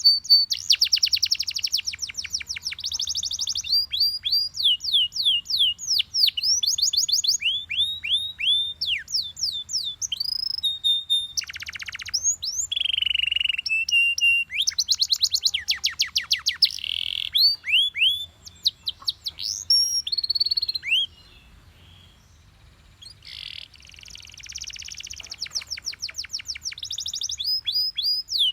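Yellow Belgian canary singing a long, loud song of rapid trills, each made of quick downward-sweeping notes, with short rolls and single whistled notes between them. It breaks off for about two seconds about two-thirds of the way through, then starts trilling again.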